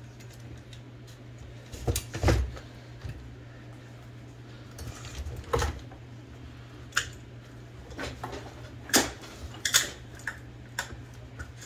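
Small metal typewriter parts being handled on a workbench: scattered, irregular clinks and knocks, with a few louder clacks over a steady low hum.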